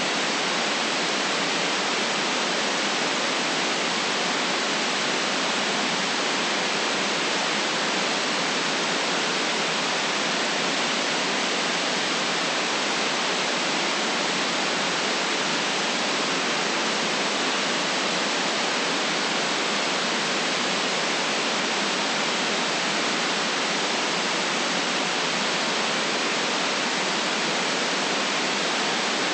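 Steady white noise: an even, smooth hiss with no low rumble and no changes or events.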